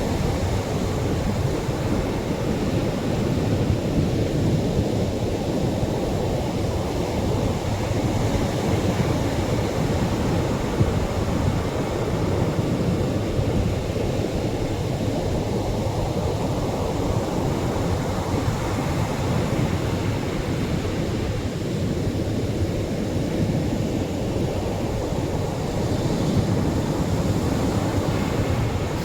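Atlantic surf breaking on the shore: a steady low rumble of waves that swells slightly about a third of the way in and again near the end.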